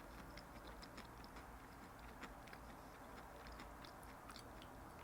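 Faint chewing: soft, irregular mouth clicks of someone eating.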